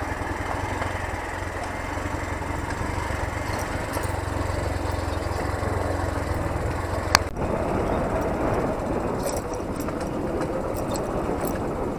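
Motorcycle engine running steadily while riding a rough off-road track. About seven seconds in there is a sharp click, after which the low engine note largely drops away.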